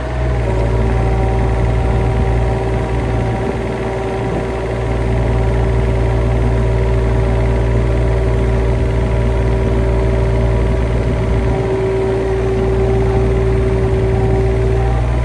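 An engine running steadily at a constant speed, with a strong low hum and a steady whine above it.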